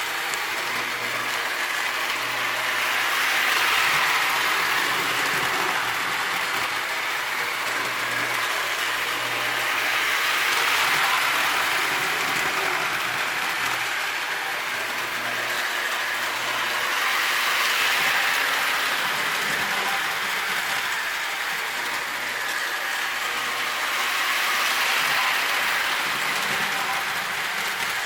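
Marx Wm. Crooks toy electric locomotive pulling its tender, flat car and caboose around O-27 three-rail tinplate track, a steady whirring clatter of motor gears and metal wheels on the rails. The sound swells and fades about every seven seconds as the train comes round each lap.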